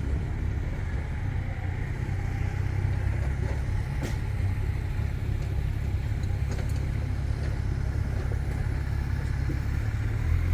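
City street traffic: a steady low rumble of passing cars and engines, with a few faint clicks.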